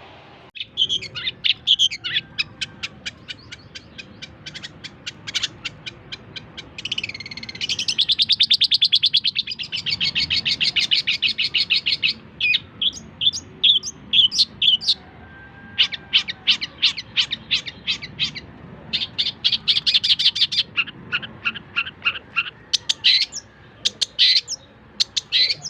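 Long-tailed shrike (cendet) singing a varied, chattering song of rapid repeated notes and buzzy trills in short phrases, with a long dense trill in the middle.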